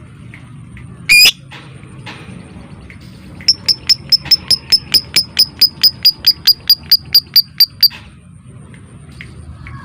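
Lovebird calling: one loud shrill call about a second in, then a long run of about two dozen sharp, evenly spaced notes at five to six a second for about four seconds, over faint chatter.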